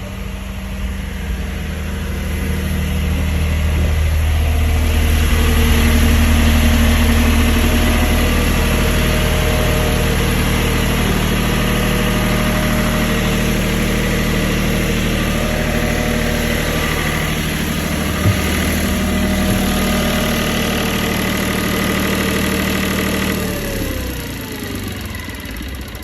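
Generator engine running steadily, then shut off near the end: its pitch slides down and the sound fades as it runs down.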